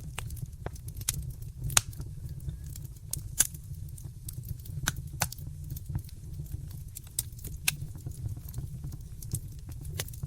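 Wood fire in a fireplace crackling: irregular sharp pops and snaps over a steady low rumble. The loudest pops come about two and three and a half seconds in.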